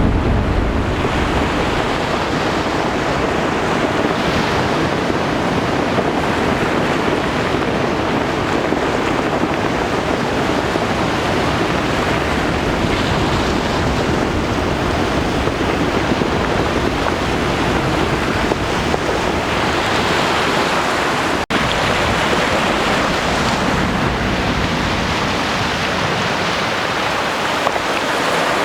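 Steady rush of surf, with wind on the microphone. The sound drops out for an instant about three quarters of the way through.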